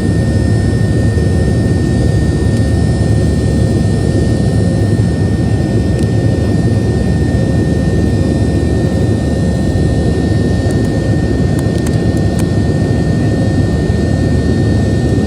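Boeing 737-700's CFM56-7B jet engines running with a steady, loud low rumble and a thin constant high tone above it, with a few faint clicks near the end.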